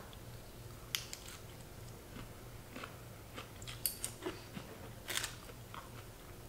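Close-miked chewing of a mouthful of green salad leaves: irregular crisp crunches and clicks, with a couple of sharper, louder ones about four and five seconds in.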